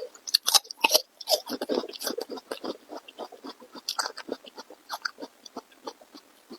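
Person chewing and biting food close to the microphone: a dense run of quick smacks and crunches, thinning out in the second half.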